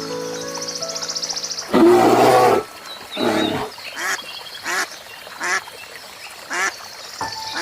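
Ducks quacking over background music: two louder harsh quacks, then a run of short quacks less than a second apart.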